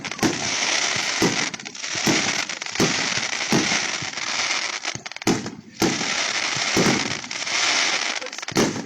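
Fireworks going off in quick succession: a sharp bang about once a second over a continuous dense crackling, with a brief lull about five and a half seconds in.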